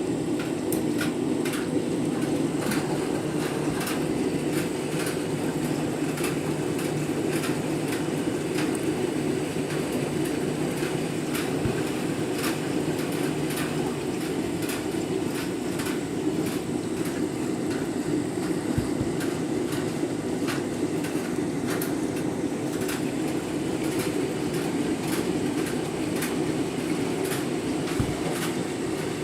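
Candy washing machine running its rinse, the drum turning while water fills it: a steady mechanical rumble with frequent light clicks throughout.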